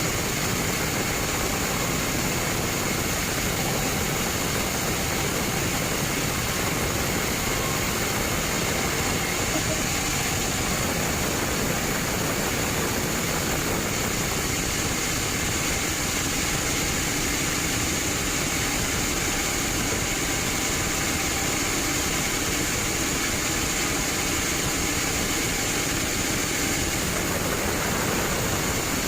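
Sawmill bandsaw machinery running steadily, a continuous mechanical noise with a faint high steady whine.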